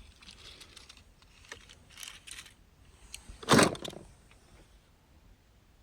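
Small clicks and light rattles of toy cars being handled, with one louder, brief sound about three and a half seconds in.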